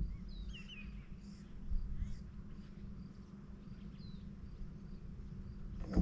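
Faint, scattered bird chirps over a low steady rumble, with a few short chirps about half a second in and another after four seconds.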